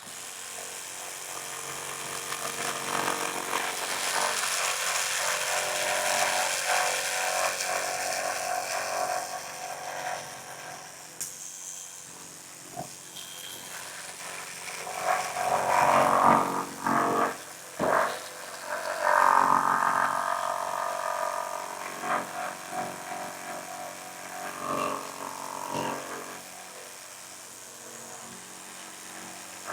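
Reciprocating saw cutting through a rotted wooden fascia board, running in uneven spurts that are loudest past the middle.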